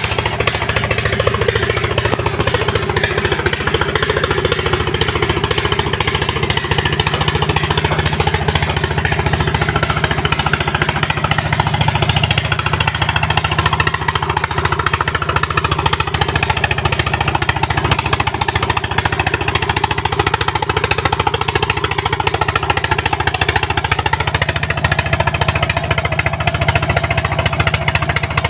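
Engine of a sand-suction pump running steadily under load with a fast, even pulsing beat.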